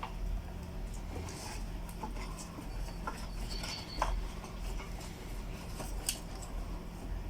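Scattered light metallic clicks and taps of a ratchet, sockets and bolts being handled while the valve cover is unbolted, a few sharper clicks among them, over a steady low hum.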